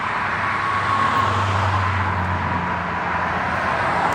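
Car engine hum with tyre and road noise, swelling slightly in the middle and easing off again.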